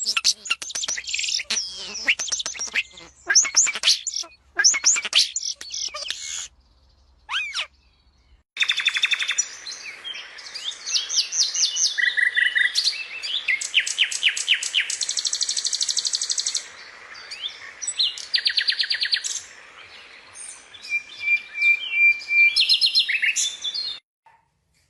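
Small birds chirping and singing, with fast trills and rapid runs of repeated high notes. The sound drops out for about two seconds partway through, then a different stretch of birdsong comes in.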